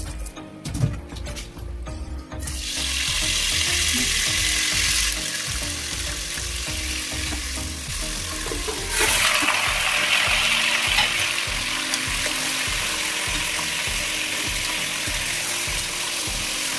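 Hot oil sizzling in an open pressure cooker. A steady sizzle starts a couple of seconds in, then jumps louder about nine seconds in as raw chicken pieces are tipped into the oil and stirred, and carries on at that level.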